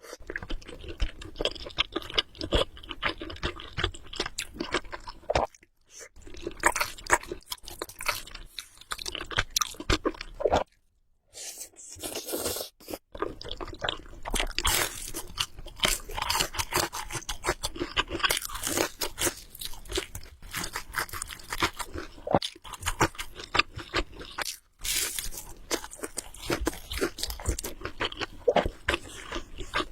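Close-miked chewing of Samyang Buldak carbonara noodles: dense, crisp mouth clicks and smacks, pausing briefly a few times.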